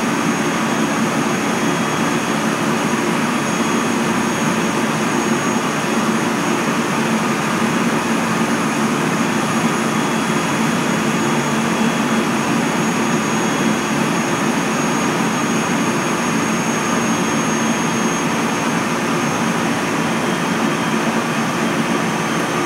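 Cabin running noise of a JR Central 373 series electric multiple unit travelling at a steady speed. A constant rumble from the running gear carries a steady low hum and faint high whines, with no rise or fall in pitch or loudness.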